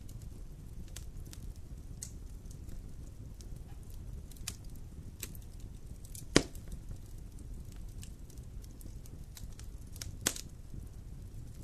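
Campfire burning with a low steady rumble and scattered crackles, including a loud sharp pop about six seconds in and another a little after ten seconds.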